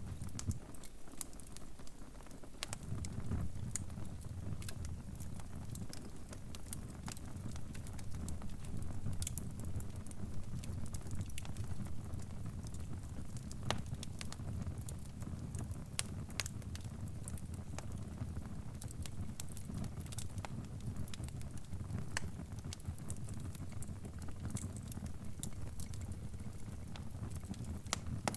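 Crackling wood fire: sharp pops and snaps at irregular intervals over a steady low rumble of burning.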